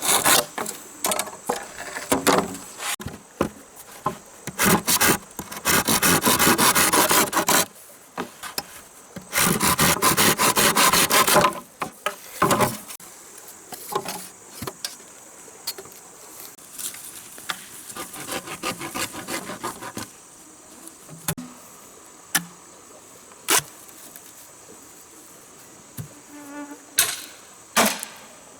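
A hand tool works wood in rapid rasping strokes, in two long runs about five and nine seconds in, with scattered knocks and taps between. A steady high insect drone runs underneath.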